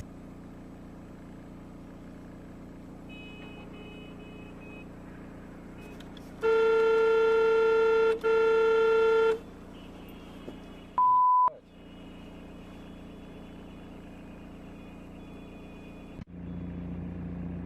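Steady engine and road hum from a moving vehicle. About six seconds in, a vehicle horn sounds loudly for about three seconds with one brief break. A few seconds later comes a single short, high electronic beep.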